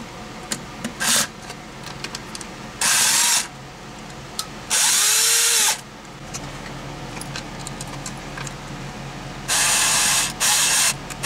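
Handheld power drill/driver run in about five short bursts of under a second each, the motor spinning up and winding down, with small clicks between them. It is being used to back a stuck fastener out until it comes free.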